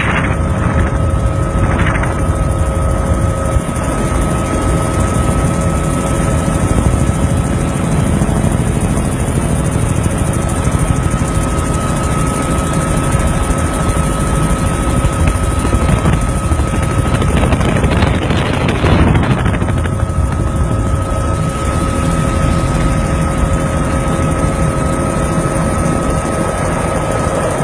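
Helicopter flying nearby: steady, rapid rotor-blade chop over a low rumble, with a constant engine whine.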